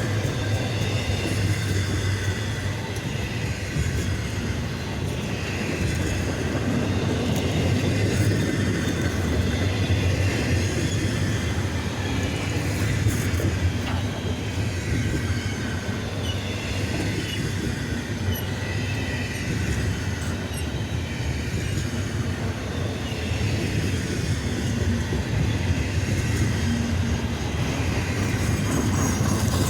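Double-stack intermodal freight train rolling past: a steady rumble and clatter of the cars' wheels on the rails, with a faint high wheel squeal now and then.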